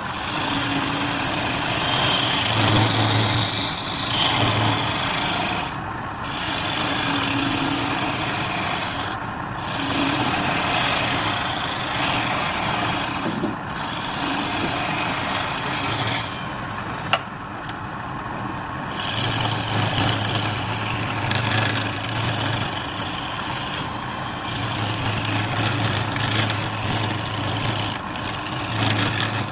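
Wood lathe running with a turning tool cutting the spinning wood: a steady rushing scrape over a low motor hum. The cutting noise breaks off briefly a few times, longest for about two seconds around the middle, with one sharp click.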